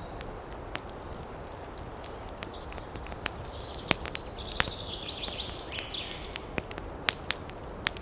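Wood campfire crackling, with irregular sharp pops and snaps over a steady wind hiss. In the middle a high, scratchy animal call lasts a couple of seconds.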